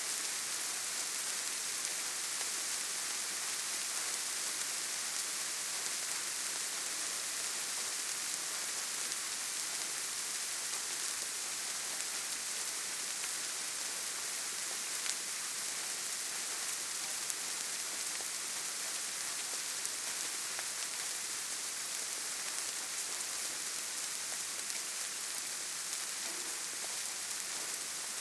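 Steady rainfall, a dense even hiss of many drops, with a couple of sharper single ticks about halfway through.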